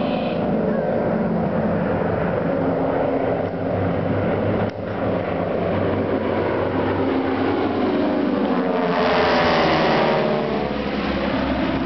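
A formation of aerobatic aircraft flying past, their engines growing louder to a peak about nine seconds in, then dropping in pitch as they pass and move away.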